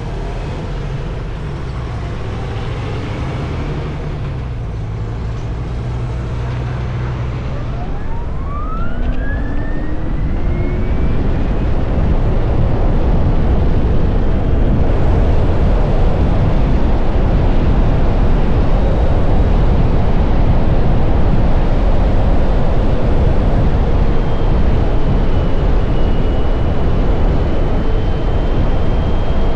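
Electric motorcycle on the move: its motor whine rises in pitch as it accelerates about eight seconds in. After that, heavy rushing wind noise builds and stays loud at speed.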